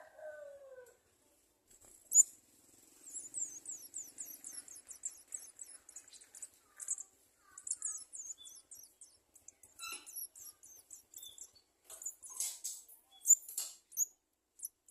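Garden sunbird nestlings begging: quick runs of very high chittering chirps. A brief lower falling call comes at the start, and a sharp click about two seconds in.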